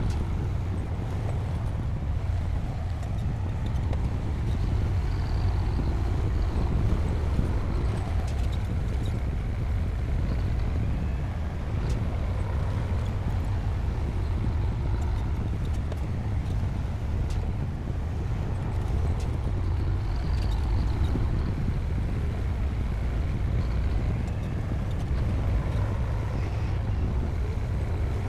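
Bulldozer's diesel engine running steadily, a continuous low drone.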